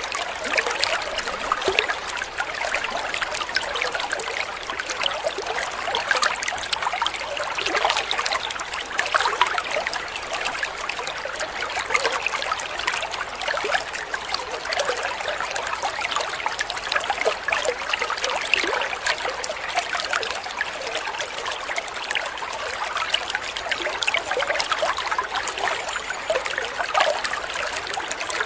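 Water trickling and splashing over stones in a small stream: a steady babble of many small splashes.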